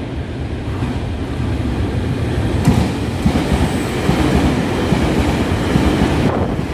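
Taiwan Railway electric train running past the platform at speed: wheels clattering over the rails with a rushing noise, growing louder from about three seconds in as the cars go by close, with a sharp knock just before.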